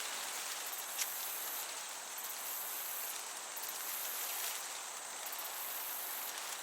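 Crickets chirping in high-pitched pulsing trains over a steady hiss of gentle breeze through the meadow, with one brief sharp tick about a second in.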